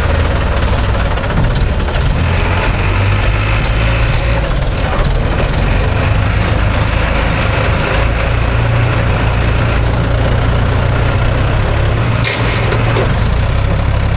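A farm tractor's diesel engine runs steadily at a low, even rumble, just after being started.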